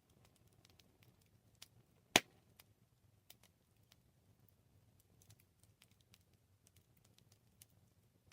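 Wood campfire crackling: scattered small irregular pops, with one loud sharp pop about two seconds in, over a faint low rumble of the flames.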